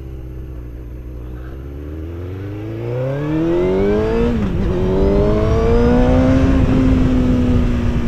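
Motorcycle engine pulling away from low revs: its pitch climbs steadily, dips briefly at a gear change about four and a half seconds in, then climbs again and holds steady. Wind noise grows louder as the speed builds.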